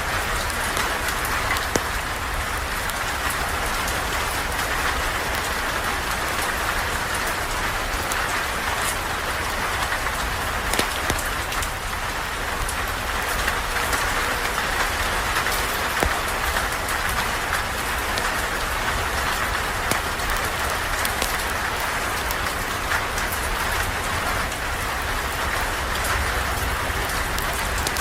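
Steady rain pouring, with a campfire's scattered crackles and pops.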